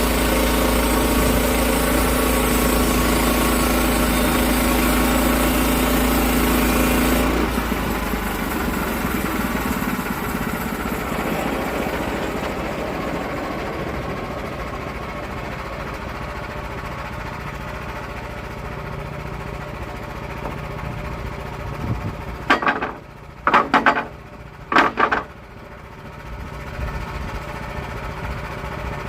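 A sawmill's engine running under load while the blade cuts through an oak log. About seven seconds in, the cutting noise stops and the engine runs on more quietly, slowly fading. Near the end come three short, loud, sharp noises.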